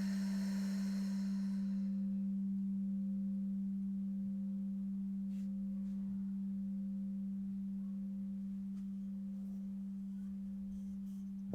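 A singing bowl ringing on one low, pure, steady tone that slowly fades, with a soft hiss over it in the first couple of seconds. Right at the end, another bowl is struck at a higher pitch.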